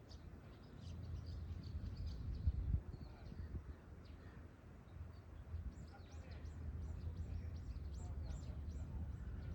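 Small birds chirping in quick short notes, more of them in the second half, over a steady low rumble.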